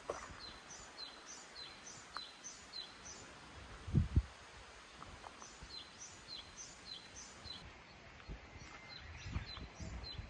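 A small bird calls over and over in runs of short, high, falling chirps, a few a second, against open-air background noise. Two heavy low thumps land about four seconds in, and soft footsteps thud near the end.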